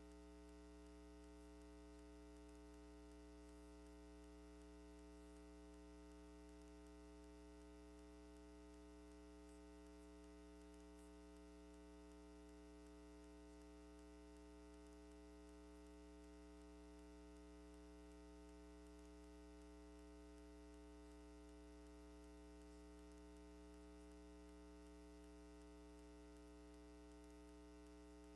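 Steady electrical hum with many evenly spaced overtones and a faint hiss under it, unchanging throughout: mains hum in the recording with no other sound.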